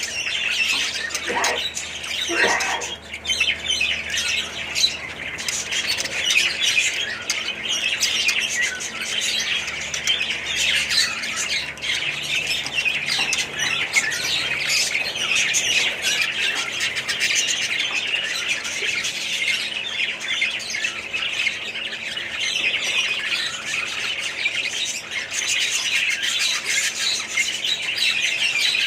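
A flock of small parrots chattering and squawking continuously, many birds calling over one another.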